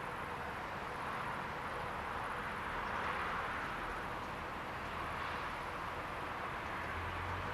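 Steady rolling noise of a train moving through the station, swelling slightly midway, with a low rumble coming in near the end.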